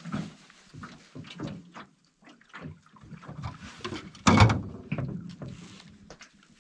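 Irregular knocks and clunks of gear being handled in a small boat, the loudest a heavy thump about four seconds in.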